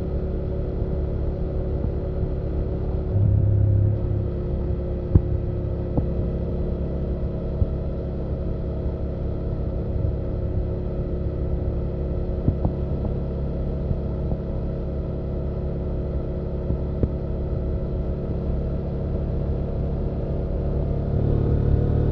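BMW F800GS parallel-twin engine and exhaust running at a steady cruise under the rider, with a few sharp clicks along the way; about a second before the end it grows louder as the throttle opens.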